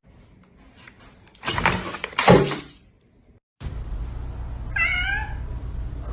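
A cat meows once, a short wavering call, about five seconds in, over a steady low rumble. Earlier, around two seconds in, there is a loud harsh burst with a falling cry.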